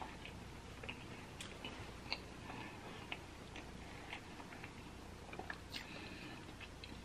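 Faint closed-mouth chewing: small scattered clicks and ticks, a few a second.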